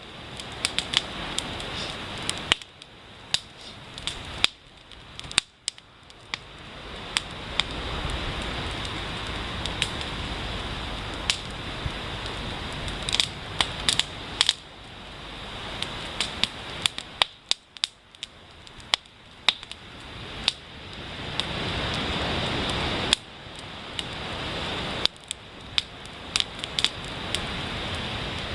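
A wood fire crackling, with many sharp, irregular pops over a steady hiss that swells and fades every few seconds.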